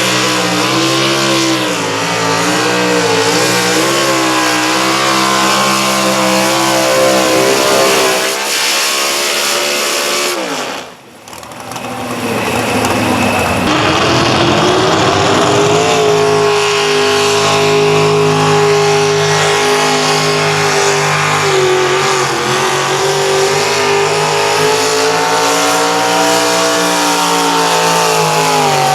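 Competition pulling tractor engine running hard at high revs, its pitch wavering slightly. About eleven seconds in the engine drops away with a falling pitch and the sound briefly dips. Then an engine rises again and holds steady high revs.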